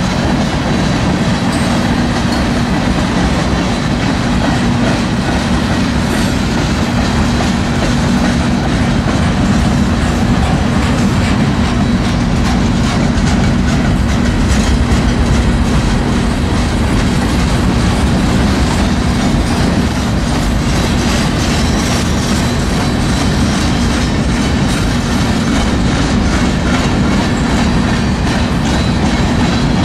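Freight cars rolling past at close range: a steady rumble of steel wheels on rail with a running clickety-clack, over a steady low hum.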